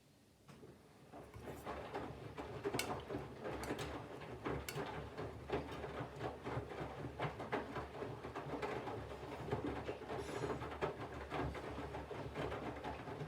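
Candy GVF4 137 LWHC/2 front-loading washing machine in its main wash: after a brief pause the drum starts turning again about a second in, wet laundry tumbling in water with many small knocks and clicks.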